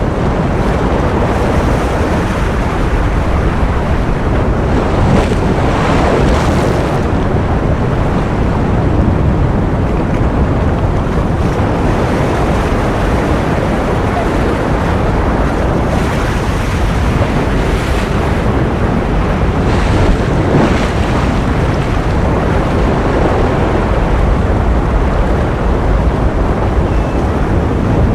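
Ocean surf: a continuous, steady wash of waves, heaviest in the low end, swelling slightly now and then.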